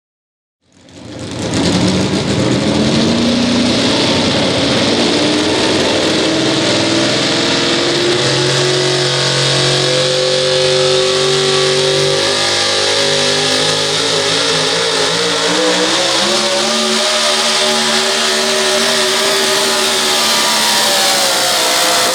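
Limited pro stock pulling tractor's turbocharged diesel engine at full power through a hook. The revs climb quickly at the start, then the pitch holds, sags and recovers as the sled loads it down. The pitch starts falling at the very end as the run winds down.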